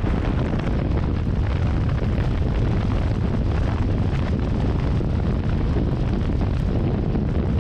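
Wind buffeting the camera microphone of a motorcycle riding at speed: a loud, steady low rumble.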